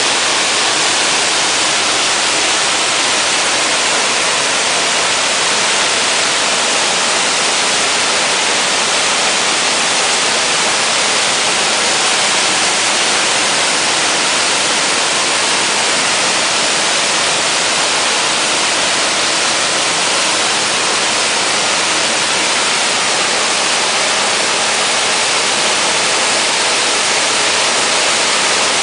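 Waterfall crashing, a steady, loud rush of falling water that never changes, strongest in the hiss.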